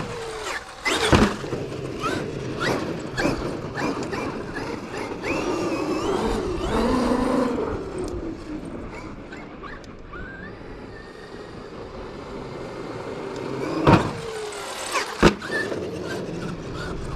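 Traxxas XRT electric RC monster truck driving on dirt: its motor and drivetrain whine rising and falling with the throttle. Sharp thumps at the start, about a second in, and twice near the end as it lands from jumps, the chassis slapping the ground despite the stiffer springs.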